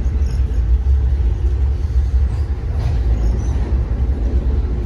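Passenger train car running at speed, heard from inside the coach: a steady low rumble of the wheels and car body on the track.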